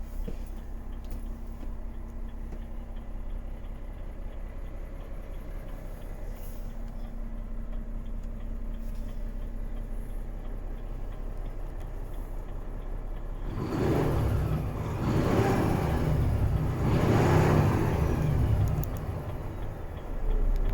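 Renault T 480 truck's six-cylinder diesel engine idling steadily, then revved up three times in the last seven seconds or so, each rev swelling and falling back.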